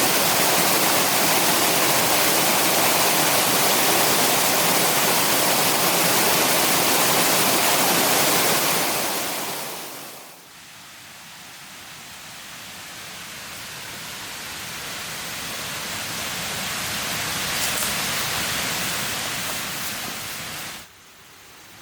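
Steady, loud rushing noise with no distinct events. It drops sharply about ten seconds in, builds slowly again, and cuts off suddenly near the end.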